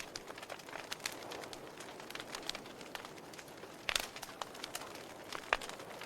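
Wood fire in a fireplace crackling: irregular sharp pops and snaps over a soft hiss, the loudest pop about four seconds in and another a second and a half later.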